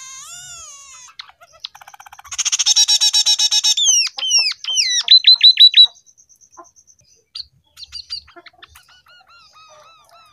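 Scaly-breasted munia singing a canary-style song taught to it by canary tutoring: warbled wavy phrases, a loud fast buzzy trill about two seconds in, then a run of falling sweeps and quick repeated rising notes. The song tails off into faint scattered notes in the second half.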